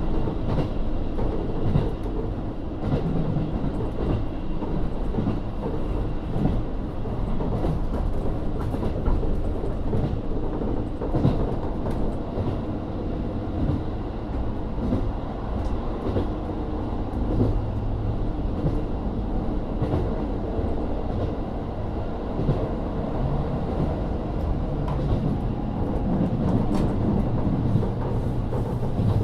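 Interior running sound of a KiHa 40 diesel railcar under way: a steady rumble from its N-DMF13HZB diesel engine and its wheels on the rails, with scattered light clicks from the track.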